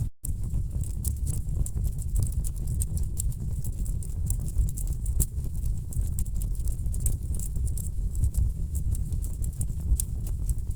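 Wood fire burning in a fireplace: a steady low rumble of the flames with dense, irregular crackles and sharp pops from the logs. The sound drops out for a split second right at the start.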